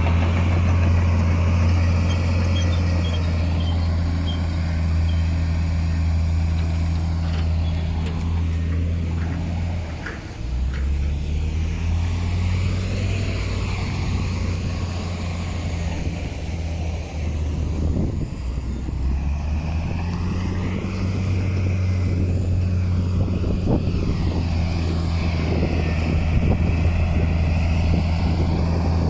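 Heavy diesel engine of earth-moving machinery running steadily; its pitch drops about ten seconds in and climbs back up around twenty seconds, with a few short knocks.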